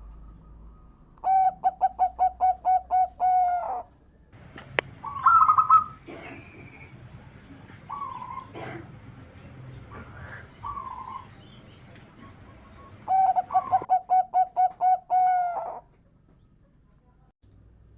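Zebra dove (perkutut) singing. Two bursts of its song, each a rapid run of about nine short, clipped coos ending in a longer drawn-out note, come a little over a second in and again near the end. Fainter calls come in between.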